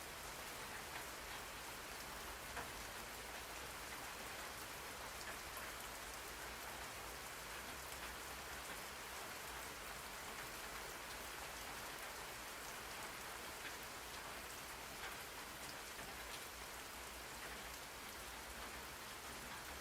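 Steady rain falling, an even hiss with scattered faint drop ticks, played as a background noise track.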